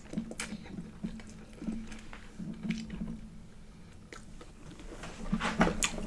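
A person chewing food close to the microphone, with short wet mouth clicks and smacks that come thicker and louder near the end.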